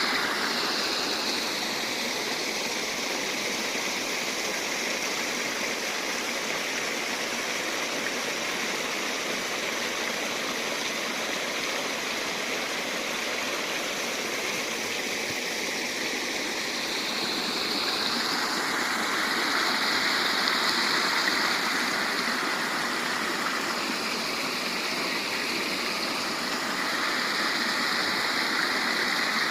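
Rainwater runoff rushing in a steady stream after heavy rain, getting a little louder about two-thirds of the way through.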